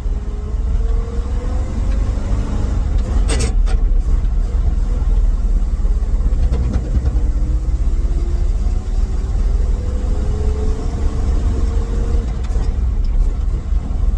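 Ford F350 dump truck's carbureted engine running under load as the truck picks up speed, its note rising twice. A short sharp clatter a little over three seconds in. The engine runs a little chuggy.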